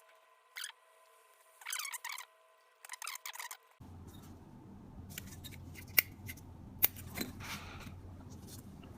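Small hand tools clicking and scraping on a petrol lighter's metal insert, in short scratchy bursts, then two sharp metallic clicks about six and seven seconds in.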